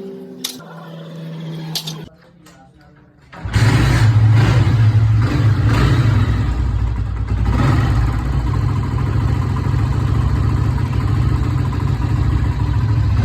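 Motorcycle engine starts about three and a half seconds in, after a brief quiet pause, and then runs loudly and steadily.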